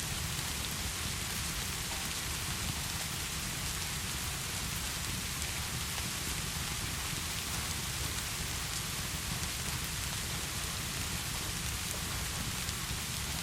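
Steady heavy rain falling, a constant even hiss of drops with a low rumble beneath.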